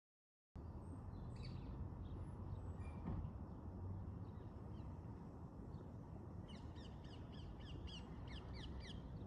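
Outdoor ambience of steady low background noise with a few scattered bird chirps, then, about two-thirds of the way in, a bird starts a rapid run of short high calls, about five a second. The sound begins after a brief moment of total silence.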